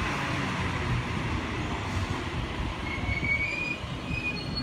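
Sydney Trains Waratah double-deck electric train moving past the platform, its wheels rumbling on the rails, with faint high wheel squeals in the second half.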